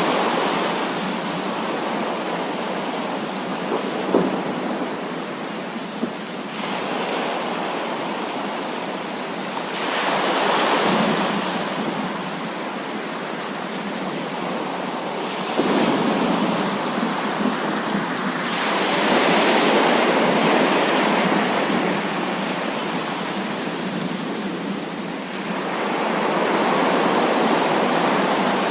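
Heavy rain falling steadily, with rolling thunder swelling up and dying away several times, and a couple of brief sharp cracks.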